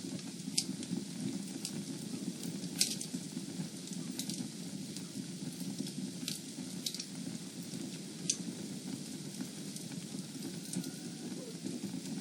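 Fire burning in a fireplace: a steady low rush of flames with sharp crackles and pops every second or two, the loudest a little under three seconds in.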